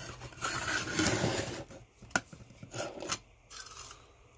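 Scraping and rubbing as parts are handled during disassembly, lasting about a second and a half, followed by a few sharp clicks.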